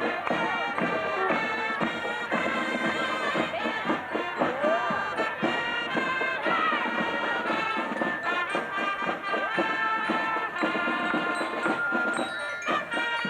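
A parade band playing: held notes from wind instruments over regular drumbeats.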